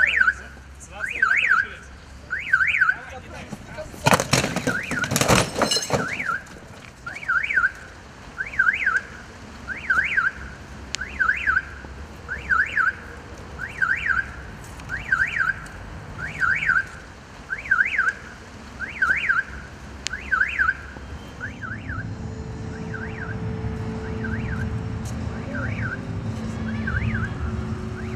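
A car alarm sounds, tripped as the police car is lifted and tipped over. It repeats a rising-and-falling chirp about once every 1.4 s and grows fainter past the twenty-second mark. A loud burst of noise cuts across it about four seconds in, and a low rumble builds near the end.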